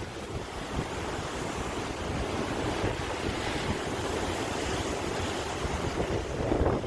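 Sea waves washing onto the shore in a steady rush of surf, with a louder surge near the end, and wind buffeting the microphone.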